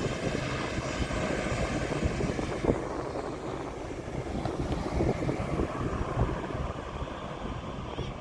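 Aircraft engine noise, a continuous rumble that slowly fades as the plane moves away.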